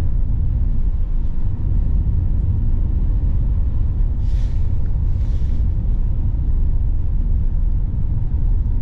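Steady low rumble of a car's engine and tyres on the road, heard from inside the moving car. There are two brief hissing swishes, about four and five seconds in.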